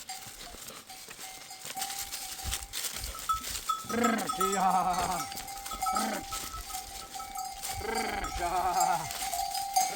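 Sheep and goats of a flock bleating several times in wavering calls, over the steady ringing of a livestock bell.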